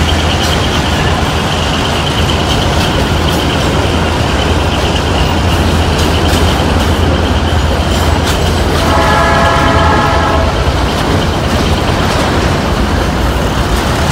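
Diesel-hauled freight train passing close by: a steady low rumble from the locomotive that dies away about ten seconds in, over the constant noise of the wagons' wheels on the rails. A horn sounds once for under two seconds, a little past the middle.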